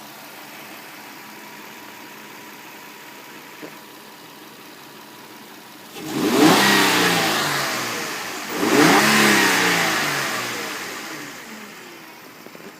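Nissan Skyline GT engine idling, then revved twice about two and a half seconds apart. Each rev climbs sharply and then drops slowly back toward idle.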